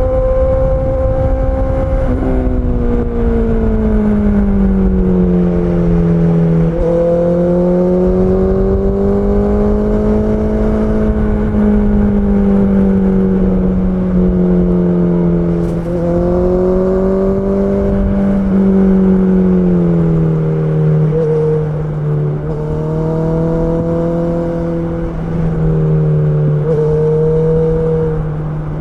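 Honda CB650R's inline-four engine running under way. Its note sinks gently a few seconds in, climbs a little, and sinks again about two-thirds through, over a steady low rush.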